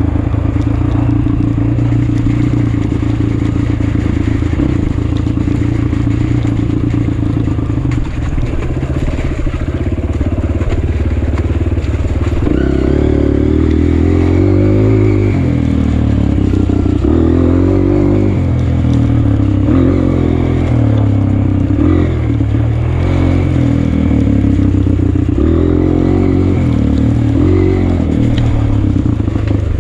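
Honda CRF230F dirt bike's single-cylinder four-stroke engine running, steady at first, then from about twelve seconds in rising and falling in pitch again and again as the throttle is opened and closed.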